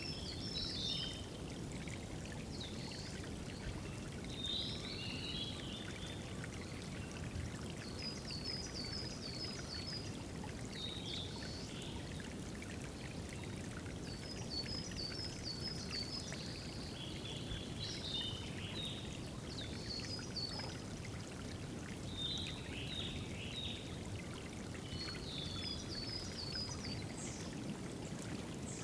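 Water trickling and splashing steadily at a small forest water spot, with songbirds singing short phrases over it every few seconds, some as quick runs of repeated high notes.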